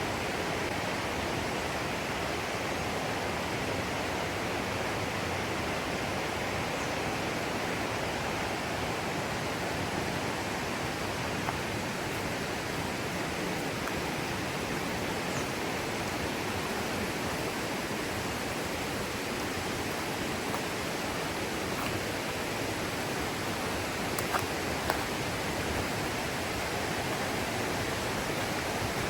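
Mountain river rushing steadily over rocks, an even wash of flowing water. A couple of faint clicks come near the end.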